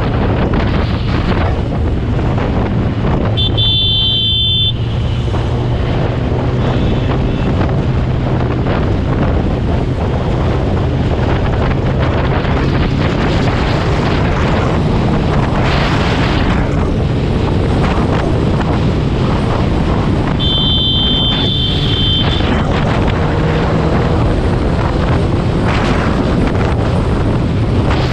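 Heavy wind buffeting on the microphone of a superbike riding at speed, with the motorcycle's engine running steadily underneath. A high-pitched vehicle horn sounds briefly twice, a few seconds in and about two-thirds of the way through.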